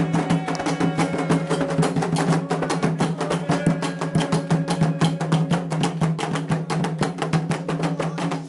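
Candomblé ritual percussion: hand drums and a struck bell or wood-like percussion playing a fast, dense, driving rhythm of many strikes a second.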